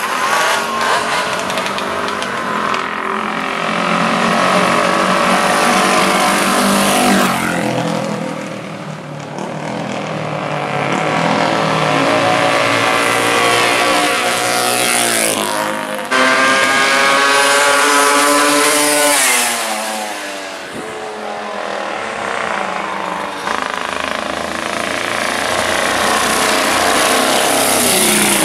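Classic racing motorcycle engine at high revs, its pitch climbing through each gear and dropping at the shifts.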